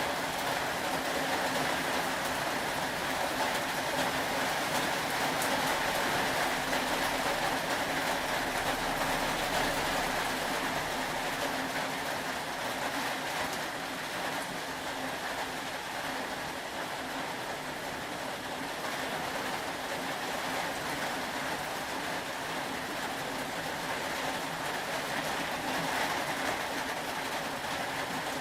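Steady rain falling, an even hiss of water without breaks.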